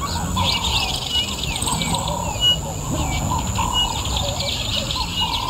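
Several birds calling in the bush, a busy mix of short chirps, trills and wavering whistles.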